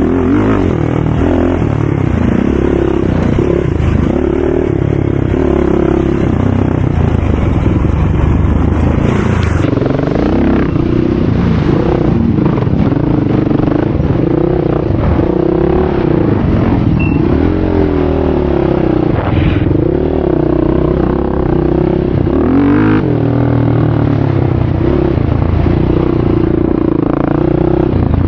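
ATV engines running hard, the revs climbing and dropping again and again as the quads ride the track.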